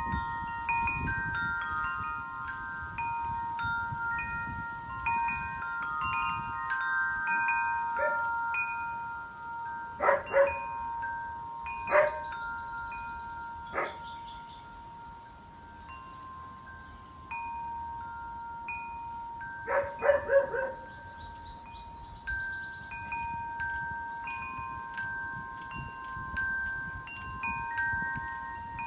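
Wind chimes ringing in the wind, many overlapping sustained tones struck again and again, with wind gusting on the microphone. A few short, louder sharp sounds break in about a third of the way in and again about two-thirds in.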